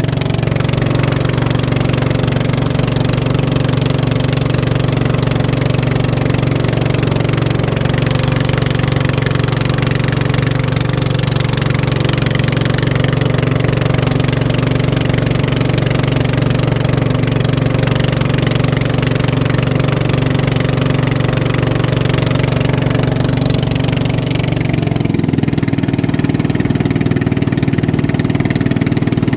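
Racing boat engine running steadily at a constant speed, with a slight change in pitch about 25 seconds in.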